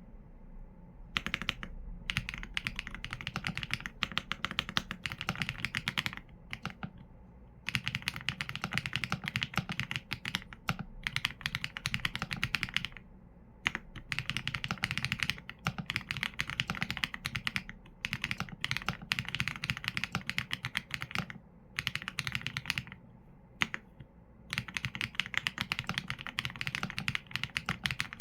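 Typing on a Qsenn A75 mechanical keyboard with Leobog Graywood V4 linear switches and PBT keycaps: fast runs of keystrokes broken by brief pauses, with a deeper thock under each key press.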